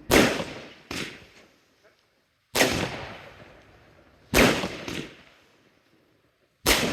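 Consumer fireworks battery (cake) firing, sharp bangs about every two seconds, each echoing away, with fainter second bangs following a couple of them.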